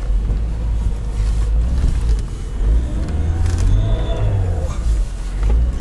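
Lada Niva 4x4 engine and drivetrain running under load, heard from inside the cabin as it drives over snow, with a deep steady rumble. A little past the middle, a whine rises and falls as the engine revs up and eases off.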